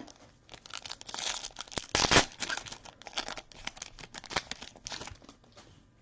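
A trading-card pack's wrapper being torn open and crinkled by hand: a run of crackling rips and rustles, loudest about two seconds in, dying away near the end.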